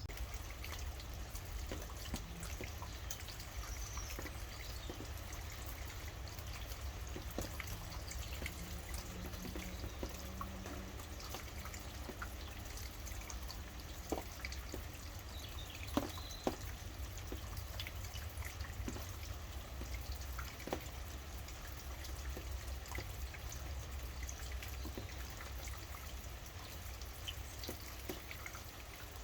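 Rain dripping and pattering as a steady hiss full of close individual drops, with a few louder drips near the middle. A faint bird call or two sounds over it.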